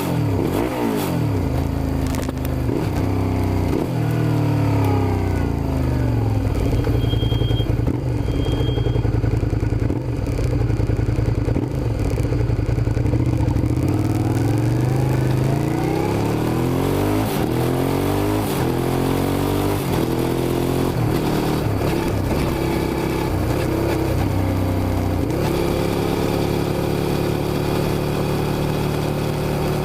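Suzuki SV650's V-twin engine, with its pitch rising and falling over and over as it is revved up and eased off, then holding a steady note for the last few seconds.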